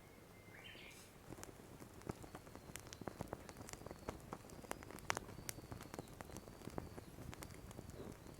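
Frying in a skillet of oil over an open wood fire: irregular sharp crackles and pops, several a second. A faint high, short call repeats about every three-quarters of a second through the second half.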